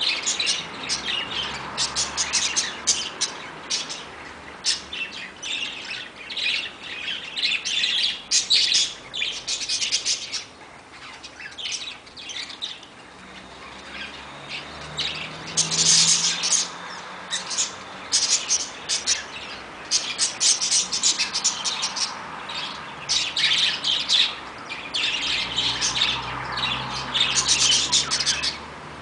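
Birds chirping and squawking in a busy, overlapping chatter of short high calls, coming in bursts with a quieter spell roughly midway.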